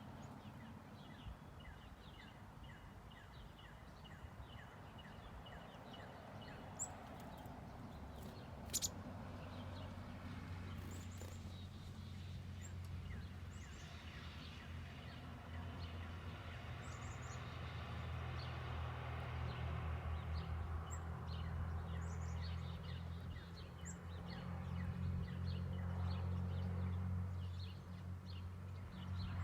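Small backyard songbirds chirping and calling on and off, over a low steady hum that swells through the second half. A single sharp click about nine seconds in.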